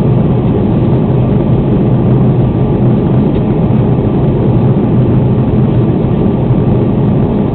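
Steady cabin noise of an Airbus A330 airliner descending to land: a loud, even drone of the jet engines and airflow, heaviest in the low range.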